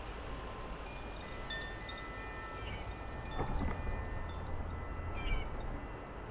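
Wind chimes ringing, several clear tones at different pitches overlapping and dying away. Wind rumbles on the microphone from about halfway, with a brief knock around the same time.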